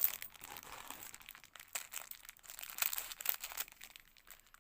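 Plastic bank bags of coins being handled, crinkling and rustling in irregular short clicks.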